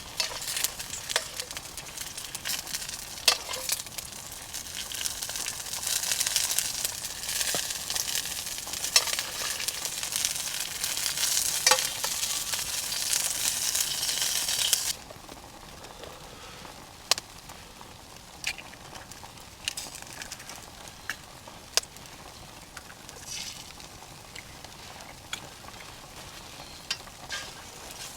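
Wood campfire sizzling and hissing, with sharp pops and crackles. About halfway through, the dense hiss cuts off abruptly, leaving a quieter fire with only scattered pops.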